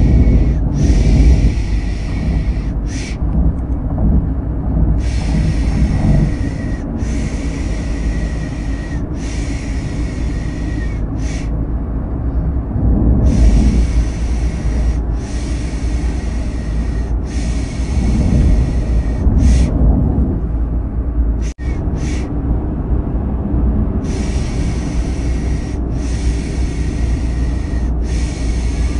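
Steady low car engine and road rumble with a hissing 'shh' shushing sound laid over it. The shushes come as groups of three or four one-second 'shh's with a pause of about two seconds after each group, in a baby-soothing loop. The sound cuts out for an instant about two-thirds of the way through.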